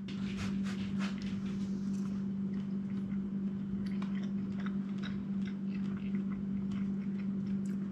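A man chewing a bite of fried, breaded game-bird nugget, with many small crunchy clicks from the breading. A steady low hum runs underneath.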